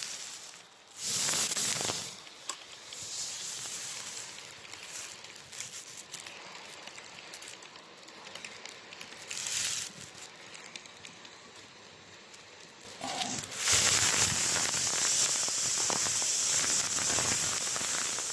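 H0-scale model train, an SU45 diesel with its passenger coaches, running along the track: a steady hissing rattle that swells a couple of times, grows loud for the last few seconds and then cuts off abruptly.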